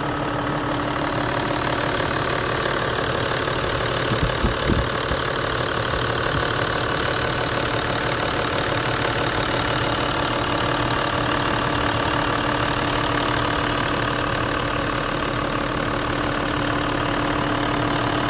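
Toyota Land Cruiser 80 series' recently rebuilt 1HD-FT straight-six turbodiesel idling steadily, with a few brief thumps about four seconds in.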